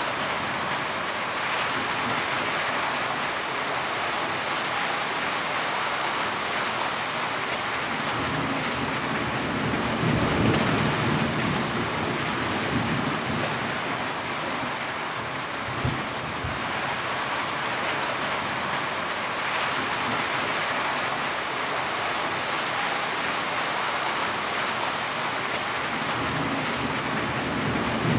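Heavy rain falling steadily, with a low rumble of thunder about ten seconds in and a short sharp thump about sixteen seconds in.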